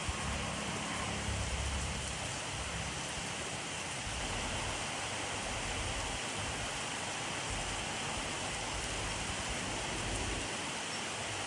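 Steady rainfall, an even hiss of drops on surfaces, with a low rumble underneath that is strongest in the first two seconds.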